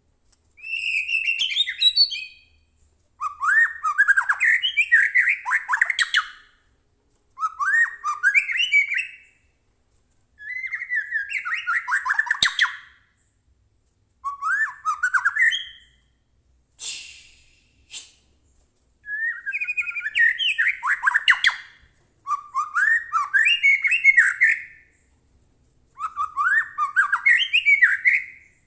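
White-rumped shama (murai batu) singing a string of short, varied phrases with brief pauses between them. The phrases mix quick sliding whistled notes with harsh, crackling high notes ('kretekan'), and one short harsh hissing call comes about two-thirds of the way through.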